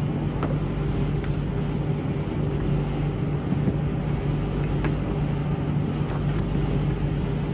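Steady low drone of a warship's machinery, a constant hum that does not change, with a few faint clicks.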